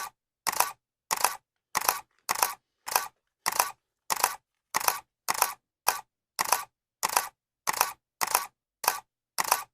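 Camera shutter clicking over and over at a steady pace, about one click every 0.6 seconds. Each click is a quick double snap.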